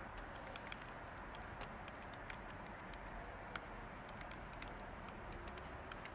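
Light typing on a computer keyboard, irregular soft key clicks with one sharper click about three and a half seconds in, over a steady white-noise hiss.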